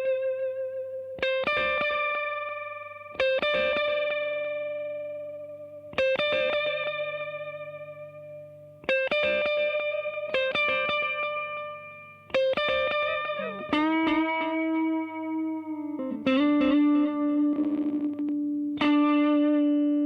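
Electric guitar played through a reverb and delay pedal: single notes and short phrases picked every couple of seconds, each ringing out and fading with echoing repeats. Lower notes ring on for the last few seconds.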